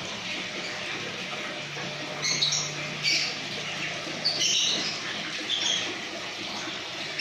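Lovebirds in a colony chattering: short shrill squawks and chirps from several birds, coming irregularly over a steady high chatter.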